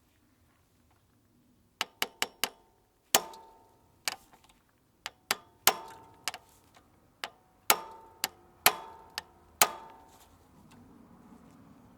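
A run of sharp, irregular metallic clicks and clinks, some ringing briefly, about fifteen of them over some eight seconds, then a faint low rustle near the end.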